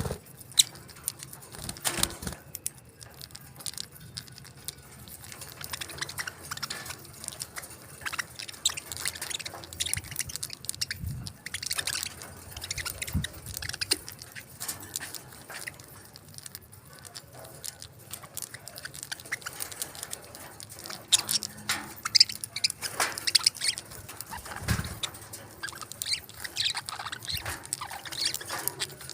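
Pet parakeets pecking at and eating soft food: irregular small clicks and taps, with occasional brief chirps.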